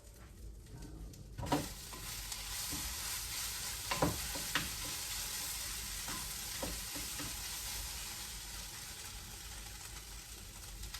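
Eggs frying in a pan: a steady sizzle that swells in about a second and a half in, with a couple of brief knocks of a utensil against the pan.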